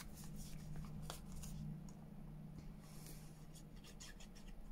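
Faint rustling and light taps of paper being handled on a craft table, over a steady low hum.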